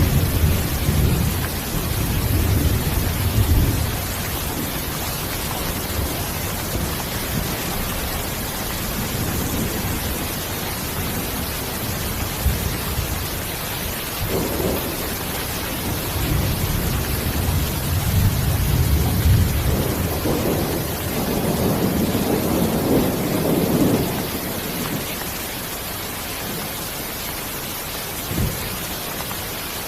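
Steady rain with low rolls of thunder: one rumble in the first few seconds and a longer, swelling one through the second half.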